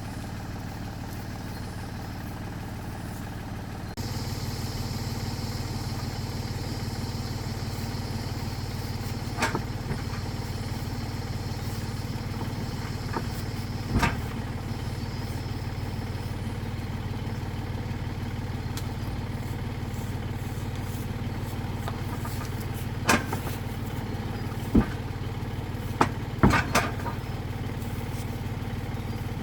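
Tractor engine running steadily, its note stepping up louder about four seconds in. A few sharp knocks sound over it in the second half.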